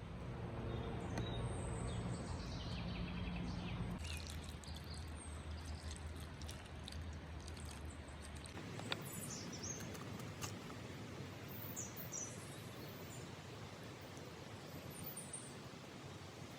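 Low steady hum of a distant engine that drops in pitch about four seconds in and dies away about eight seconds in, over outdoor ambience with small birds chirping now and then.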